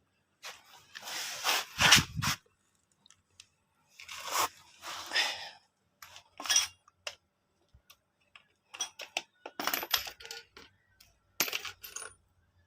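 Small metal parts and tools clinking and scraping together, handled in several short bursts of clatter.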